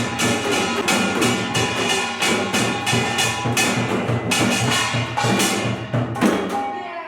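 Pungmul percussion ensemble playing a fast, dense rhythm on kkwaenggwari small gong, buk barrel drums and janggu hourglass drums. The strokes thin to a few separate beats near the end, and a final stroke leaves the gong ringing.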